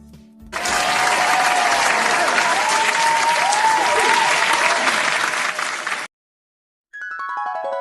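Audience applause with whistles starts about half a second in and cuts off suddenly about six seconds in. After a short silence, a descending run of bell-like keyboard notes begins near the end.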